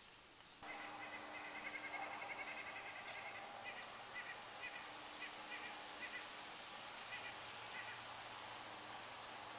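Quiet woodland ambience with a bird calling in short, high, repeated chirps, first in a quick run and then spaced out. A faint steady low hum runs beneath.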